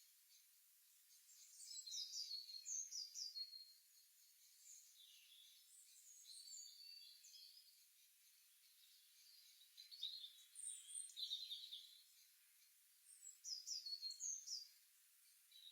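Songbirds chirping and singing faintly, with three louder bursts of quick falling notes about two, ten and thirteen seconds in, and softer calls between.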